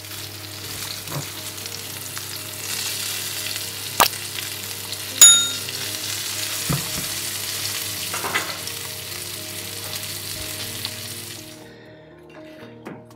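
Breadcrumbed trout fillets sizzling in hot oil in a frying pan, a steady hiss that stops near the end. Metal tongs click twice against the pan around four and five seconds in, the second a ringing clink and the loudest sound.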